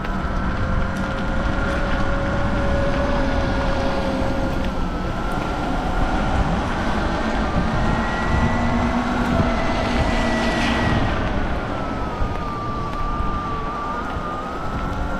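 Sur-Ron X electric dirt bike on the move: its electric motor whine slowly rises and falls in pitch with speed, over a steady rush of wind and road noise.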